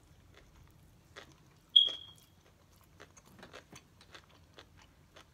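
Biting and chewing a crispy fried chicken sandwich: soft crunches and small wet clicks, thickest in the second half. About two seconds in comes one short high-pitched beep, the loudest sound.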